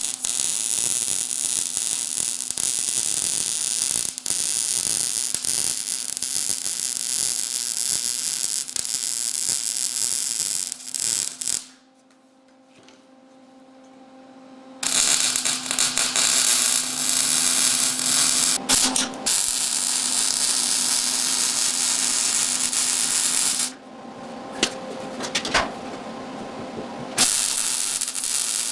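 Electric arc welding on the steel frame: a crackling, sizzling arc in long runs, breaking off about twelve seconds in and again about twenty-four seconds in before starting once more, over a steady hum from the welder.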